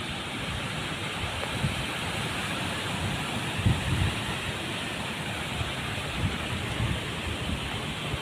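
Cyclone storm: a steady rush of heavy rain and wind, with low gusts now and then buffeting the microphone.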